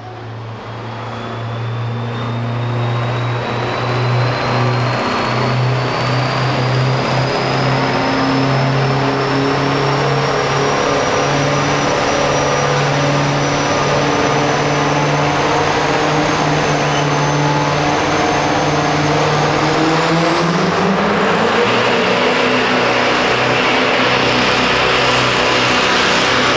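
Turbocharged diesel pickup truck pulling a sled under full load: the engine runs hard and steady, getting louder over the first few seconds, with a high turbo whistle slowly rising in pitch. About twenty seconds in, the engine note and the whistle climb sharply.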